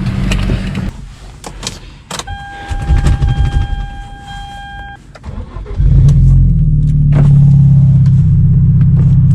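A few clicks and a steady electronic warning chime lasting about three seconds, then the 2014 Hyundai Genesis Coupe 2.0T's turbocharged four-cylinder starts about six seconds in and settles into a loud, steady fast idle through its Tomei titanium exhaust.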